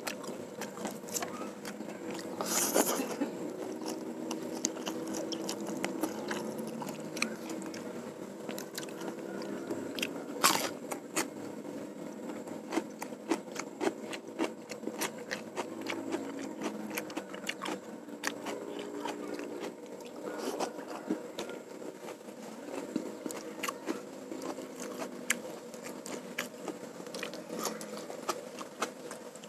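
Close-miked chewing and lip-smacking of a man eating mouthfuls of rice and fried noodles by hand, with many sharp, irregular wet mouth clicks.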